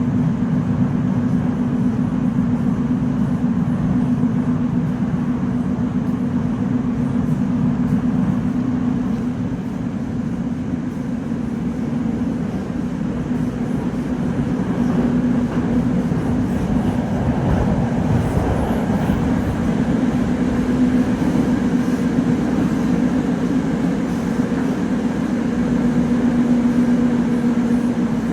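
Metro train running between stations, heard from inside the car: a steady rumble of wheels and running gear with a low, even hum.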